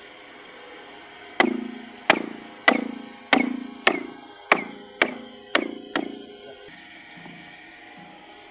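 Hammering: nine sharp blows roughly two-thirds of a second apart, each ringing briefly, stopping about two-thirds of the way through.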